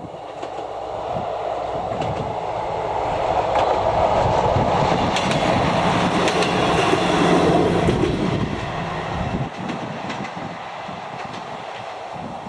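ČD class 842 diesel railcar passing close by, its engine and wheels on the rails growing louder to a peak about seven to eight seconds in, then dropping away quickly as it moves off. A few wheel clicks come over rail joints as it passes.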